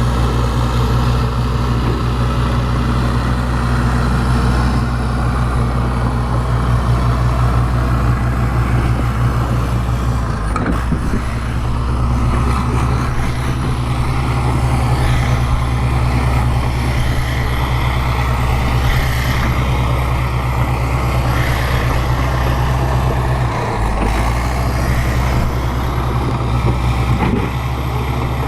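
Bulldozer's diesel engine running steadily under load, a constant low drone that dips and shifts briefly about ten seconds in and again near twenty-four seconds.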